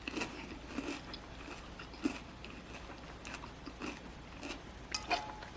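A person biting and chewing food, with soft, irregular crunches and mouth smacks.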